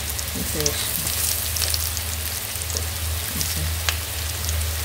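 Semolina-coated breadfruit slices sizzling and crackling steadily in hot oil in a frying pan, while a wooden spatula moves among them to turn the slices. A steady low hum runs underneath.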